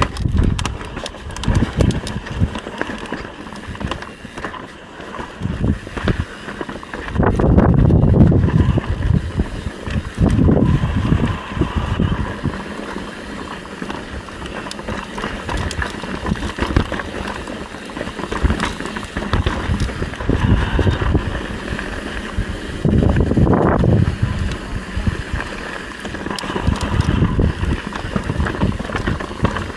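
Mountain bike being ridden along a trail: tyre rumble and drivetrain rattle, with several strong gusts of wind buffeting the microphone.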